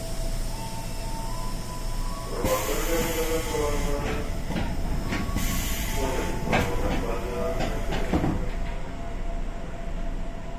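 Interior sound of a Tokyo Metro 6000 series commuter train car standing at a station: a steady equipment hum with a couple of clear tones, broken by two bursts of hissing about two and a half and five and a half seconds in, then a few sharp knocks.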